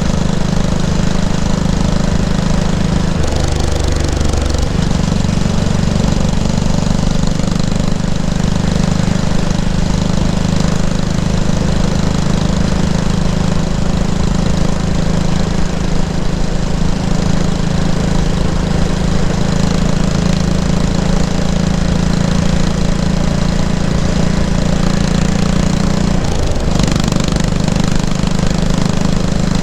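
Yamaha SR500's single-cylinder four-stroke engine running at a steady pace through its exhaust. The engine note dips briefly twice, about three seconds in and near the end.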